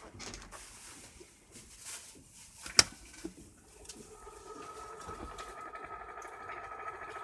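Small clicks and handling noise, with one sharp click about three seconds in, then a small electric motor starts running with a steady whine of even pitch that slowly grows louder.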